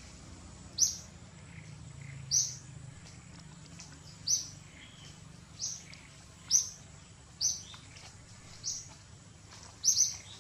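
A bird calling over and over in the forest canopy: short, high chirps repeated about once every second or so.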